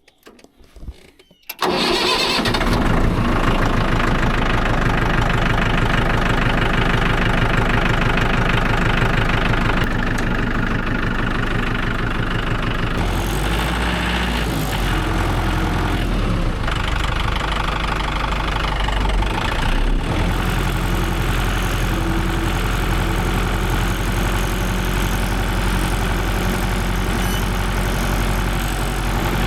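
Tractor engine starting about a second and a half in, then running steadily. It settles a little lower about ten seconds in.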